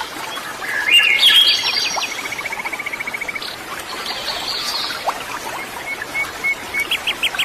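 Several songbirds chirping and calling, with a fast, even trill lasting about a second and a half about two seconds in, and a quick run of short whistled notes near the end.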